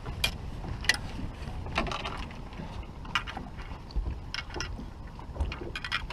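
Wind buffeting the microphone on an open fishing boat, a steady low rumble with scattered sharp clicks and ticks.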